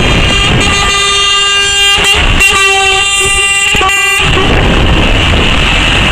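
A lorry's air horn sounds one long blast of about three and a half seconds, broken briefly a couple of times, and cuts off about four seconds in. Steady rumbling traffic noise runs under it.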